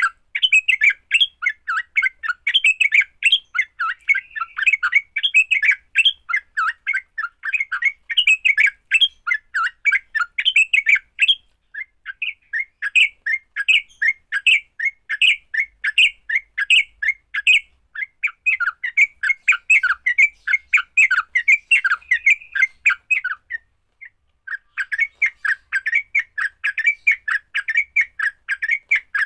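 Yellow-vented bulbuls giving their fast, chattering fighting calls, a dense run of sharp notes that breaks off briefly twice.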